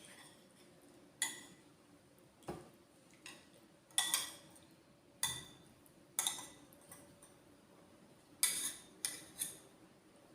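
Metal cutlery clinking against a dish while eating, about nine sharp, irregular strikes, some of which ring briefly.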